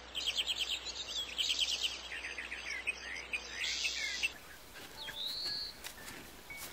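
Songbirds singing in fast trilled phrases of rapid repeated chirps, which stop abruptly about four seconds in; a single rising whistled bird call follows about a second later.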